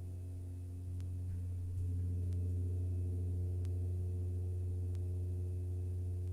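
Deep gong ringing in a long sustained wash with steady overtones, swelling louder about a second in and again just before two seconds.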